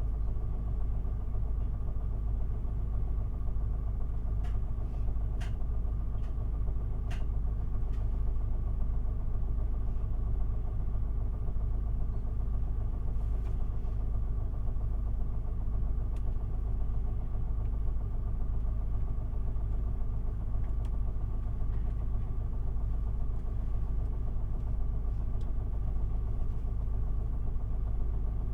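Isuzu Erga city bus's diesel engine running steadily, heard from inside the passenger cabin as an even low drone, with a few faint clicks a few seconds in.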